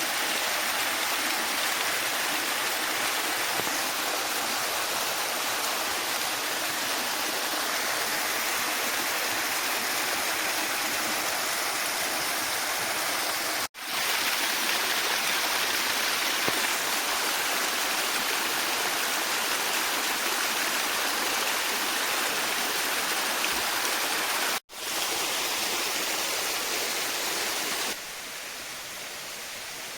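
Waterfall: a steady, even rush of falling water. It cuts out for an instant twice and becomes quieter near the end.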